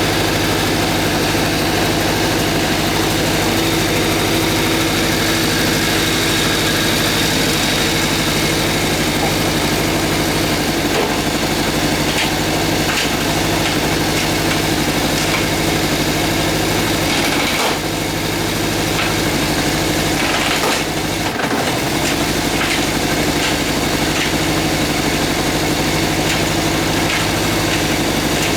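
Suzuki GSX400F motorcycle's air-cooled inline-four engine idling steadily, with a brief unsteadiness about two-thirds of the way in.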